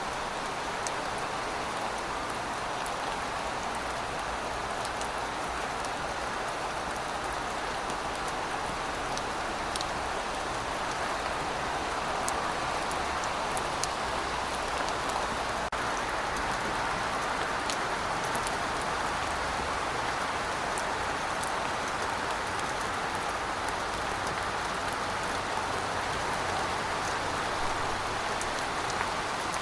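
Heavy rain falling steadily, a continuous hiss with scattered sharp drop ticks.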